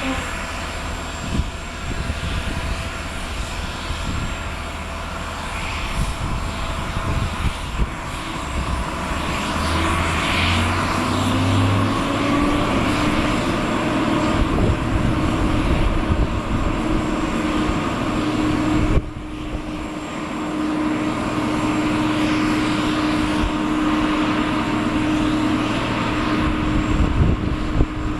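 Boeing 767-300ER's twin General Electric CF6 turbofan engines running at low power, with a whine that rises in pitch and then holds steady. The sound dips abruptly for a moment about two-thirds of the way through.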